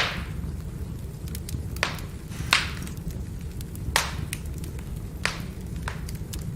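Wood fire crackling: a steady low rumble under sharp pops and snaps of burning firewood every second or so, the loudest right at the start and about two and a half and four seconds in.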